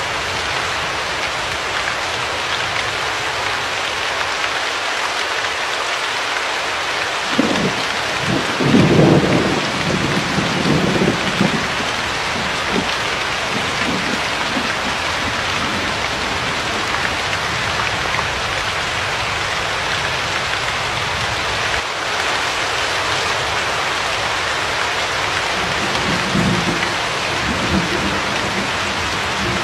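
Steady heavy rain with a constant hiss. Thunder rumbles low in the background, one longer roll from about 7 to 12 seconds in and a weaker one near the end.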